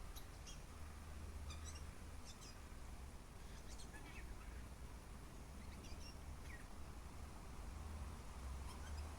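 Birds chirping faintly, a scatter of short, high calls over a steady low wind rumble.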